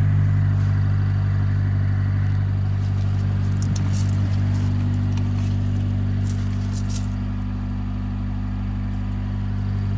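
Honda CRX ESi's 1.6-litre VTEC four-cylinder engine idling steadily just after a rev, with a few faint ticks about halfway through. It does not sound as it should: this is one of the car's faults.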